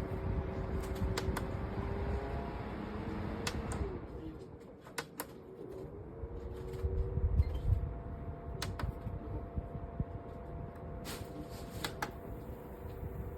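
Small desktop evaporative air cooler's fan motor running with a steady hum; about four seconds in the hum dips and returns at a higher pitch as the fan speed changes. Scattered sharp clicks sound throughout.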